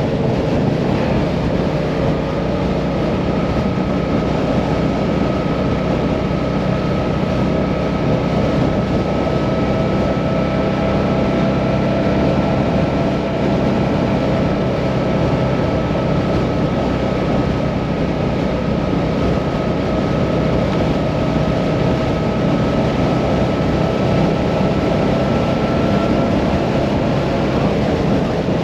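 Hyosung Mirage 650 motorcycle cruising at a steady speed, its engine holding an even note under a steady rush of wind and road noise.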